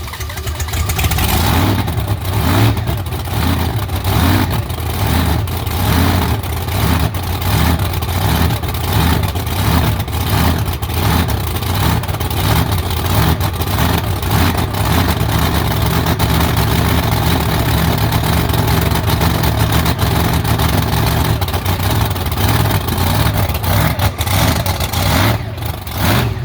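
Monster truck engine running loud, its pitch rising and falling over and over as the throttle is worked.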